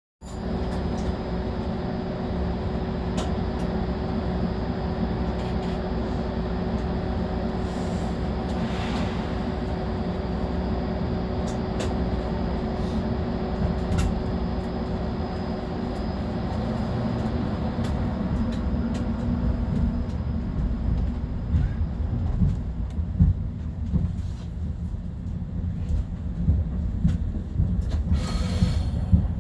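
Cab and car noise of a Long Island Rail Road M3 electric train: a steady low rumble and hum, with a steady tone that fades out about halfway through. From around twenty seconds in, irregular knocks and thumps come more and more often.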